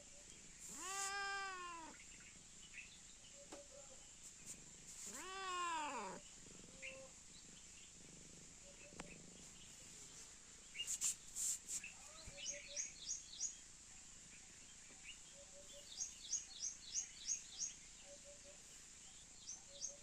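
Domestic cat giving two drawn-out meows in the first six seconds. From about halfway, a bird chirps in quick runs of about five high notes.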